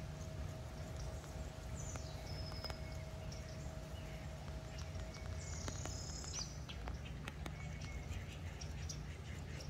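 Small birds chirping faintly and high-pitched, twice: about two seconds in and again about five to six seconds in. Under them runs a steady low hum with light scattered ticks, and a thin steady whine that stops about six seconds in.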